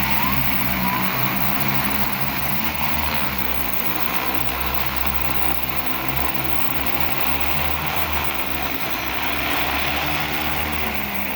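Agricultural crop-spraying drone flying, its propellers giving a steady buzzing drone with a low hum.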